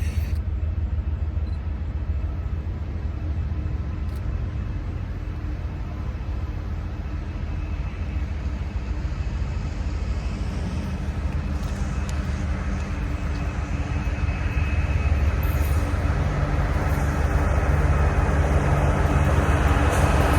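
Diesel freight locomotives running with a steady low rumble, growing louder over the last several seconds as the train draws closer, with a rising hiss toward the end.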